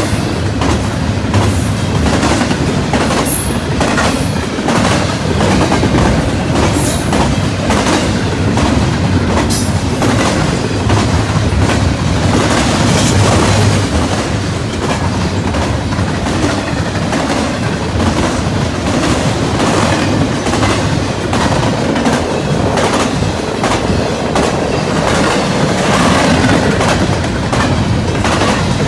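A fast intermodal freight train's cars rolling past at speed: a steady loud rumble with wheels clacking rhythmically over the rail joints, and a few brief faint high wheel squeals in the first ten seconds.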